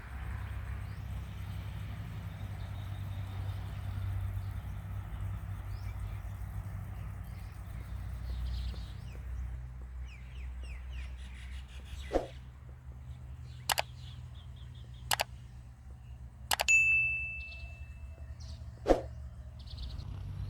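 Outdoor ambience: birds chirping faintly over a steady low rumble, with several sharp clicks or knocks in the second half and a brief ringing tone near the end.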